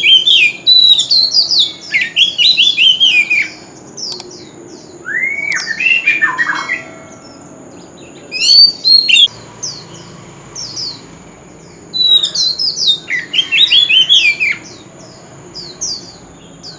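Oriental magpie-robin singing: several phrases of rapid, sweeping whistled notes, each lasting a few seconds, broken by short pauses.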